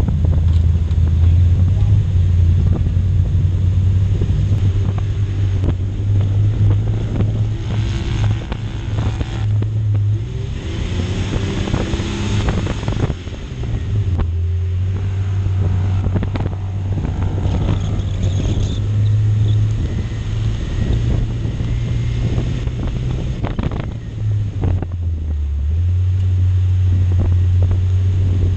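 Jeep Cherokee engine running steadily under load while driving over soft dune sand, its low drone stepping up and down in pitch a few times. Wind buffets the microphone.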